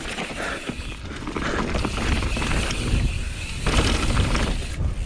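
Mountain bike ridden fast over a rough, wet trail: a steady rumble of tyres on the ground and knocks and rattles from the bike, with wind buffeting the microphone.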